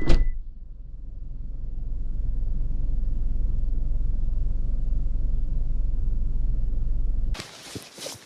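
Low, steady rumble of a running car, swelling over the first couple of seconds and then holding even. It cuts off suddenly near the end, leaving a few faint light knocks.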